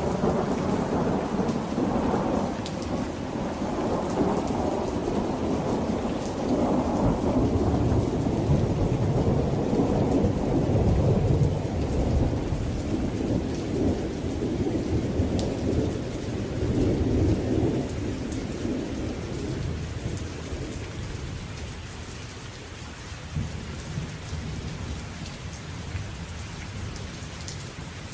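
A long rolling rumble of thunder that builds over the first several seconds, peaks near the middle and slowly dies away, over steady rain falling on a surface with scattered distinct drops.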